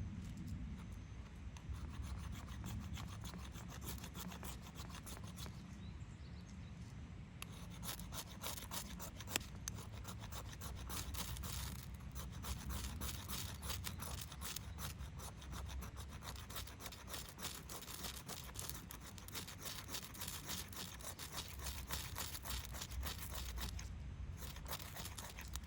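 Continuous rasping and rubbing on wood, hand work with a tool on wood for a campfire. From about a third of the way in, a dense run of small crackly ticks joins it.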